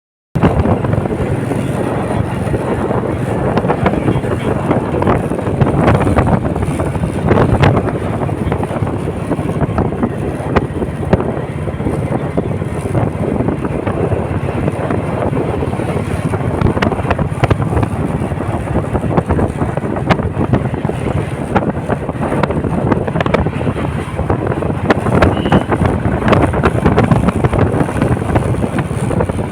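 Loud wind rushing and buffeting over the microphone of a moving Royal Enfield Bullet motorcycle, swelling and easing in gusts.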